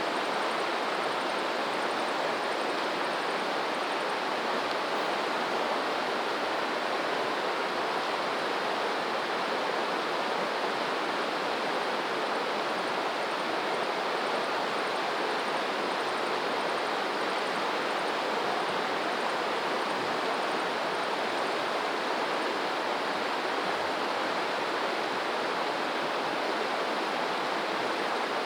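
Flowing water rushing steadily and evenly, like a stream or small waterfall, with no surges or breaks.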